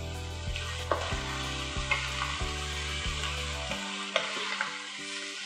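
Beef chunks, pumpkin and potato sizzling in a hot oiled pot while being stirred with a wooden spoon, with a few sharp knocks of the spoon against the pot.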